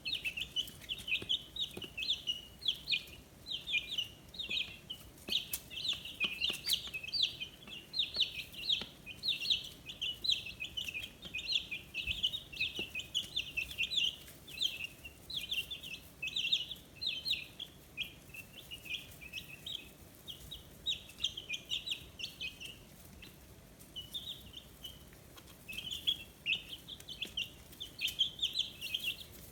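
A brood of 15-day-old chicks peeping: many short, high chirps overlapping almost continuously, thinning out briefly about two-thirds of the way through.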